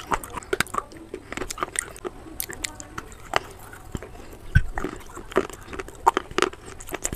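White shale pieces with creamy paste being bitten and chewed close to the microphone: irregular sharp crunches mixed with wet mouth sounds, the loudest crunch about four and a half seconds in.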